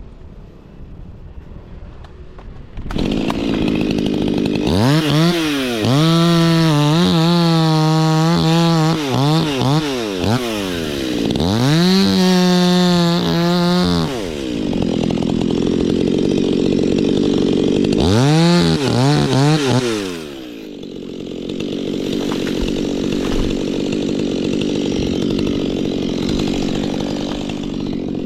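Stihl two-stroke chainsaw brought up to full throttle three times, holding high revs for a few seconds each time and dropping back to a lower run in between and near the end. It comes in about three seconds in, after a quieter start.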